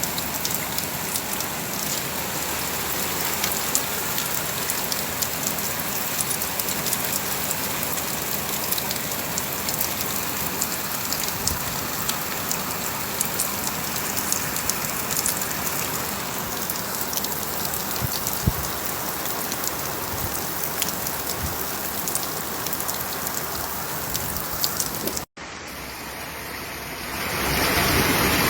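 Heavy rain falling steadily, a dense patter of drops on surfaces. After a brief break near the end, a louder, denser rush of water sets in.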